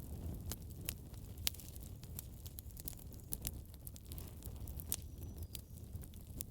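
Wood fire in a fireplace crackling, with irregular sharp pops several times a second over a low steady rumble.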